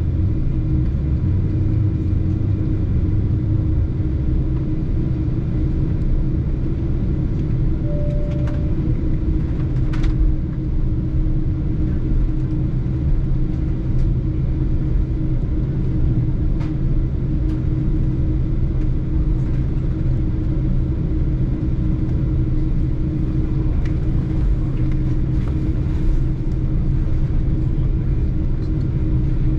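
Steady low noise of a Boeing 747-8 airliner on its departure, with a constant hum, a few light clicks and a short faint beep about eight seconds in.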